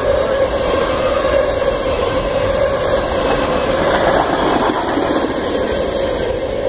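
Freight cars rolling past on steel rails: a steady, loud rumble of wheels on track with a wavering wheel whine running under it, easing slightly near the end as the last cars go by.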